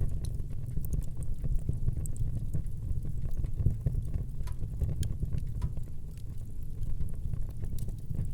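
Wood fire burning in a fireplace: a steady low rumble of the flames with many small, scattered crackles and pops.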